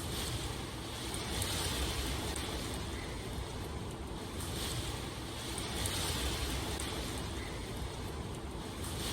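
Steady rain, a continuous hiss that swells and eases every two or three seconds.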